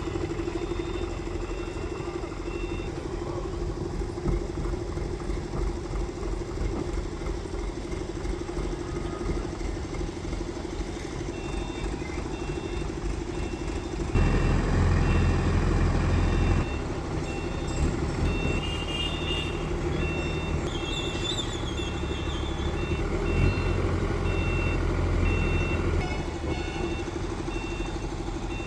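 Engine of heavy lifting machinery running steadily, with an electronic warning alarm sounding in short, evenly repeated beeps. The engine gets louder for about two seconds midway.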